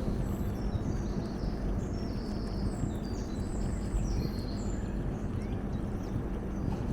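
Steady low rumble of wind and a rolling bicycle, with birds chirping in short high notes during the first four seconds or so.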